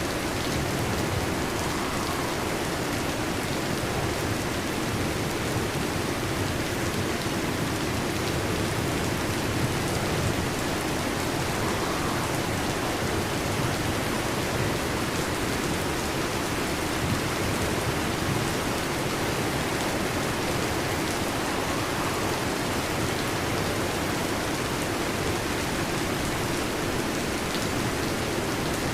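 Heavy rain falling steadily, a dense even hiss with no thunderclap standing out.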